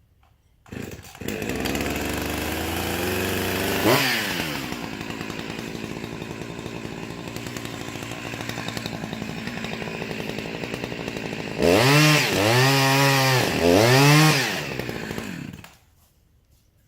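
Two-stroke chainsaw starting up about a second in and running, with a quick rev about four seconds in. Near the end it is revved up and back down three times, then shuts off.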